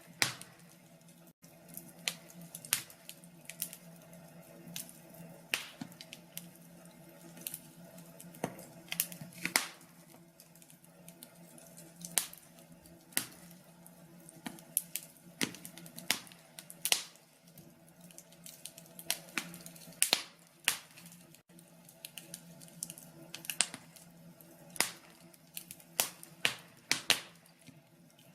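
Wood fire crackling in a fireplace: sharp pops and snaps at irregular intervals over a low steady hum.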